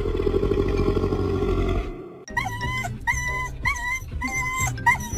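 A dog growling low for about two seconds, then cutting off suddenly. After a brief gap, music with a short repeated melodic figure.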